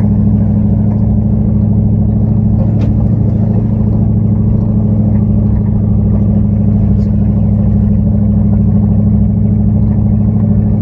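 Dodge Ram pickup's engine pulling steadily as the truck climbs a steep dirt mountain trail, a constant low drone heard from inside the cab, with an occasional faint knock.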